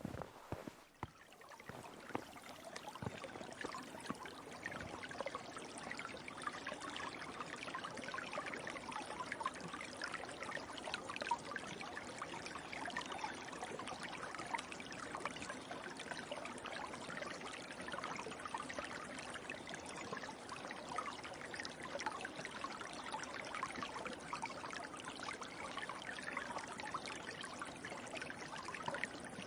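River water flowing and trickling, a steady rush that fades in over the first couple of seconds, after a few faint clicks at the very start.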